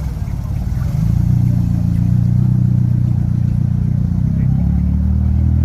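A car engine running close by with a deep, steady note that gets louder about a second in.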